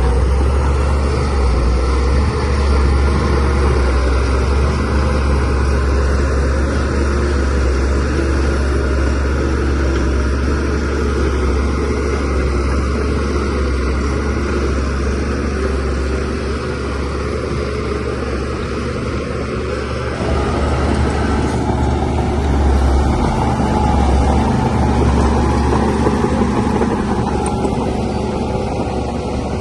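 DH17C3PRO bulldozer's diesel engine running steadily under working load, a continuous deep drone.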